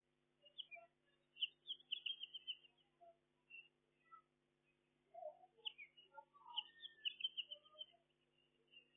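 Small birds chirping and twittering in short, quick notes, faint, in two bouts a few seconds apart, over a faint steady low hum.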